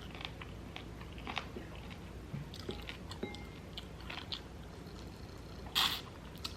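Close-miked chewing and biting of food: many small wet clicks and crunches, with one louder, crisp bite near the end.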